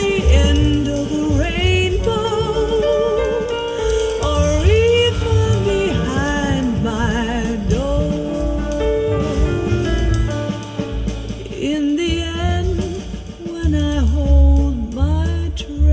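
A slow, soulful song with a solo singer using wide vibrato over deep bass and accompaniment, played back through a high-end car audio system.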